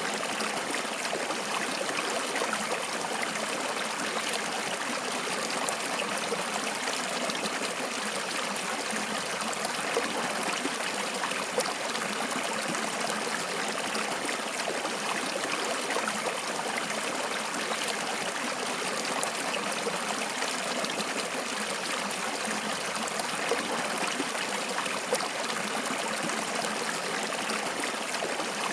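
Flowing water: a stream running and trickling steadily, a continuous even rush with small splashes.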